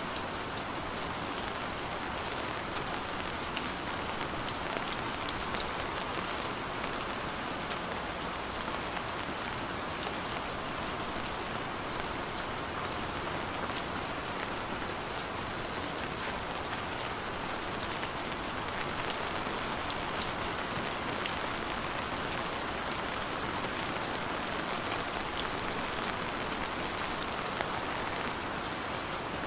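Heavy rain falling steadily, with a constant hiss and scattered sharp ticks of single drops hitting a surface.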